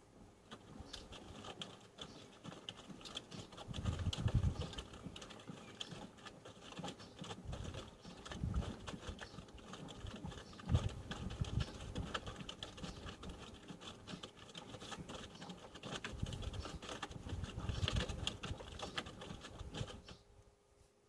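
Front-loading washing machine drum tumbling laundry through wash water: irregular splashing and pattering with heavier sloshes every few seconds over a faint steady motor hum. The tumbling stops shortly before the end as the drum pauses.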